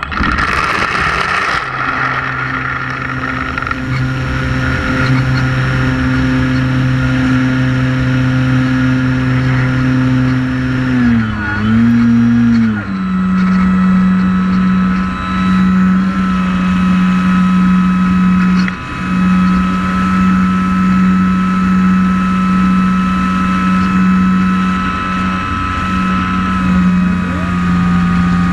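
Multirotor drone's motors and propellers whining steadily and loud. About eleven seconds in the pitch dips and wobbles, then settles at a slightly lower steady pitch.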